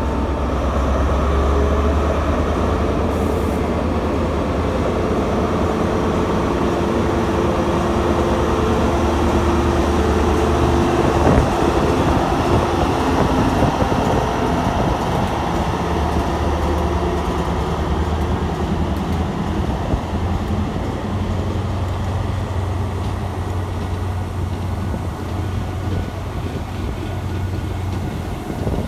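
A diesel train's engine running steadily, a continuous low drone with a hum.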